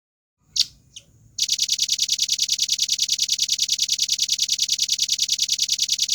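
Velvet-fronted nuthatch calling: two short, sharp high notes, then a fast, even trill of high notes at about ten a second that runs for nearly five seconds and cuts off suddenly.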